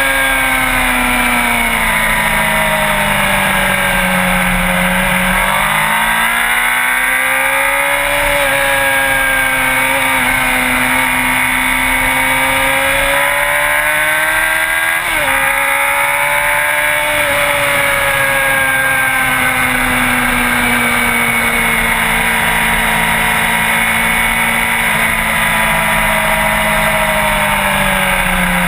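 Sport motorcycle engine running under way, its pitch slowly rising and falling with throttle, with a quick drop and recovery about halfway through.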